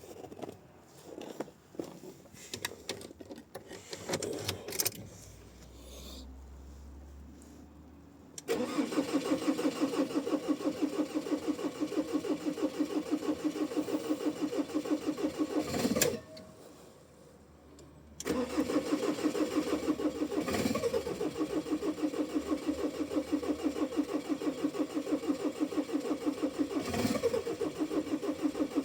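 A Ford Ranger's engine cranking on the starter in −10 °C cold, after a few seconds of clicks and a low hum. It cranks in a fast, even chug for about eight seconds without catching, stops for two seconds, then cranks again.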